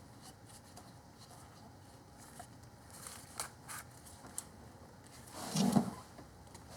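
Quiet handling noises as rubber hose is fitted over a plastic fuel line: a few light clicks and rustles, with a short louder sound about five and a half seconds in.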